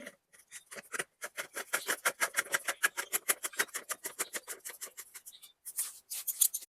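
Ratchet wrench clicking rapidly, about ten clicks a second, as bolts on the stump grinder are run in, with a few short metallic scrapes near the end.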